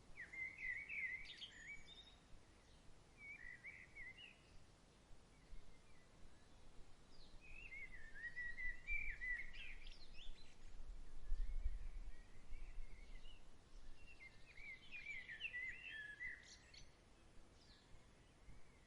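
Bird song in several short warbling phrases, with pauses between them. A brief low rumble comes about midway.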